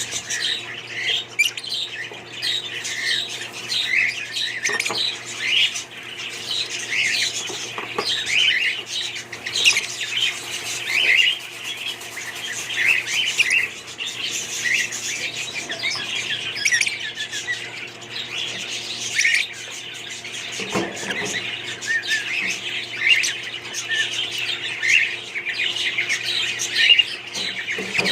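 Several budgerigars chattering and chirping at once, a dense, continuous warble of short squawks and chirps, with a steady low hum underneath.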